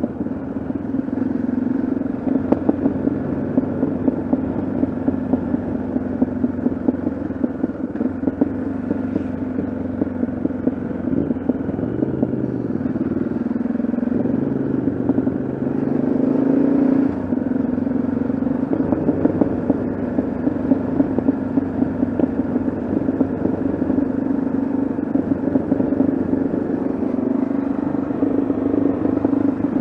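Yamaha XT660Z Ténéré's single-cylinder engine running at a steady cruise while riding. Its pitch dips and rises a few times in the middle as the throttle eases and opens again.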